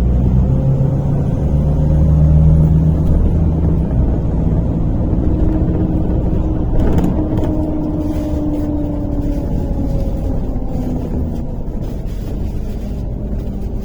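MAZ-103 city bus heard from inside the passenger cabin while driving: the engine runs loudest in the first few seconds, then eases off, with a drawn-out whine in the middle and a few brief rattles.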